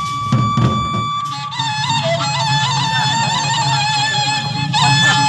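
Gendang beleq ensemble playing: a reedy wind instrument holds one long high note, then turns to an ornamented, wavering melody about a second and a half in. Underneath runs a dense low drum layer, with a few sharp strokes near the start and near the end.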